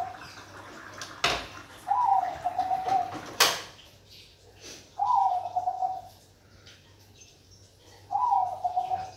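Zebra dove (Bangkok perkutut) cooing three times, about three seconds apart: each call lasts about a second, starting high, dropping at once to a lower, slightly trilling note. Two sharp knocks fall between the calls, the louder one about three and a half seconds in.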